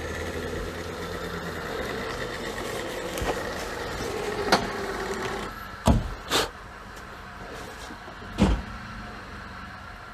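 ATV's electric winch motor whining steadily as it pulls the stuck quad, stopping about five and a half seconds in. Three loud sharp knocks follow.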